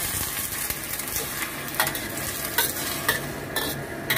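Sliced mushrooms sizzling in a steel wok with a little water, and a metal spatula stirring them, knocking sharply against the wok about five times in the second half.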